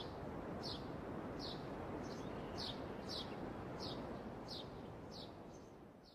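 A small bird chirping at an even pace, a short high chirp about every three-quarters of a second, over a steady hiss of outdoor ambience that fades away near the end.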